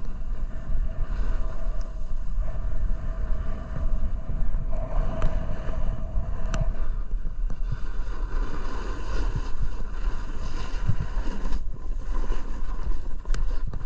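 Snowboard sliding and scraping across icy, hard-packed snow, with wind rumbling on the microphone.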